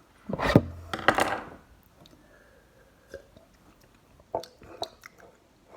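A person taking two sips of coffee made with soy milk from a cup, both in the first second and a half, followed by a few faint clicks and knocks of the cup being handled.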